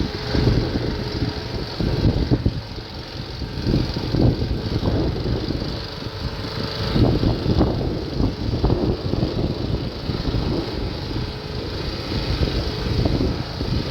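An engine running, its sound mostly low-pitched and uneven in loudness.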